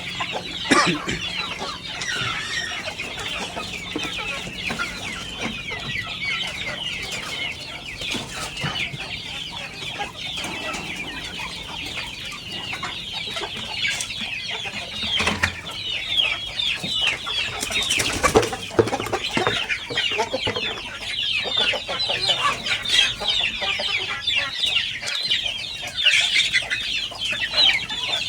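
A large flock of village chickens calling, with many short, overlapping calls that continue throughout and grow a little busier toward the end.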